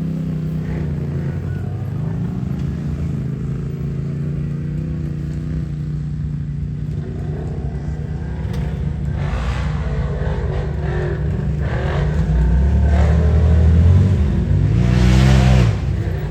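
Off-road vehicle engine running steadily, then revving harder and louder in the second half. The revs climb to a peak and cut off suddenly near the end.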